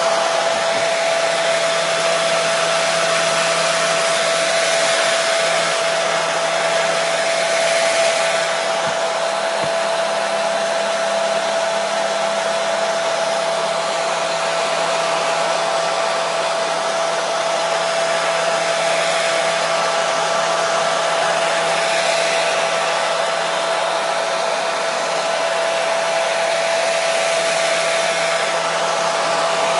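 Hair dryer running steadily: an even rushing hiss of air with a constant motor whine and a low hum underneath.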